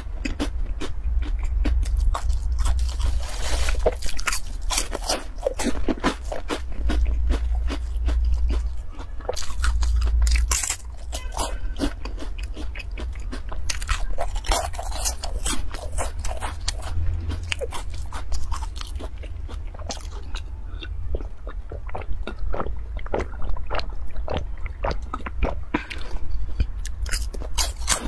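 Close-up crunching and chewing of crispy crumb-coated fried cubes: a dense, continuous run of crisp crackles as the crust is bitten and chewed.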